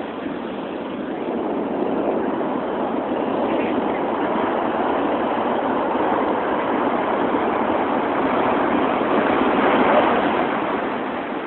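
Heavy storm surf breaking and washing in: a steady rush of waves that builds to its loudest near the end, then eases slightly.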